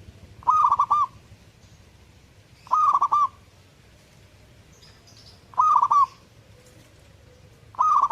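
Zebra dove (perkutut) cooing: four short phrases of quick, rolling notes, one about every two and a half seconds, the last cut off at the end.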